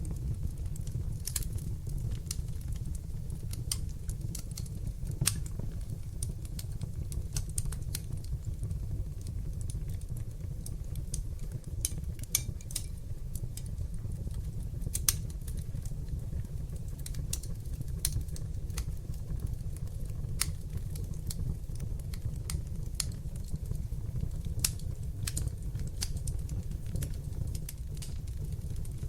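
Wood fire in a fireplace crackling, with irregular sharp pops and snaps over a steady low rumble of the flames. A few of the pops are louder than the rest.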